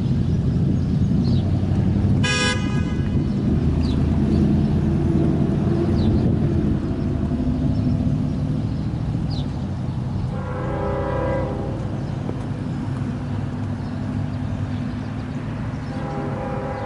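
Diesel locomotives running with a steady low rumble while the locomotive horn sounds: a short blast about two seconds in, a longer one around ten seconds, and another starting near the end.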